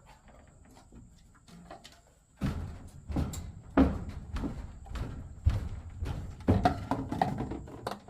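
Irregular knocks and thumps, as of things being handled and set down, coming thick and fast from about two and a half seconds in after a quieter start.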